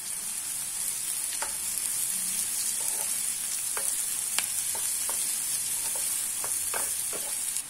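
Chopped onions, green chillies and curry leaves sizzling in hot oil in a nonstick kadai while a wooden spatula stirs them. A steady high hiss runs through it, with a scattering of short clicks.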